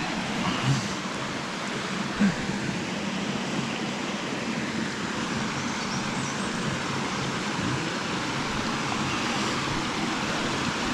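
Steady rush of water tumbling over rocks in a shallow, fast-flowing beck. A couple of short knocks sound in the first few seconds.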